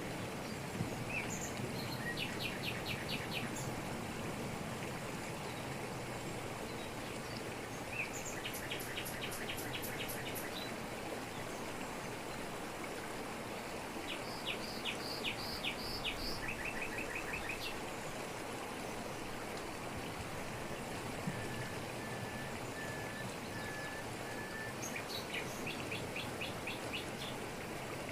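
Waterfall's steady rush of falling water, with birds calling over it: several bursts of rapid repeated high notes every few seconds, and a row of five short even whistles about three quarters of the way through.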